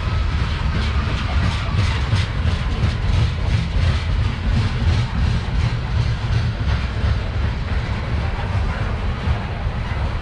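CSX coal train's cars rolling past: a steady heavy rumble of wheels on rail, with a quick run of wheel clicks over rail joints in the first half.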